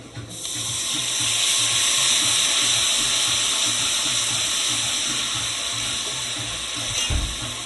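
Blended seasoning water poured into curry powder frying in hot oil in a pot, hitting with a sudden loud hiss and then settling into a steady sizzle that fades slowly. A low thump near the end.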